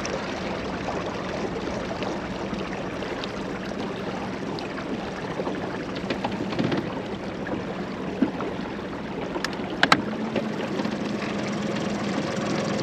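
Steady noise of water and wind around a small moored boat, with a few sharp clicks near the end, after which a faint low steady hum comes in.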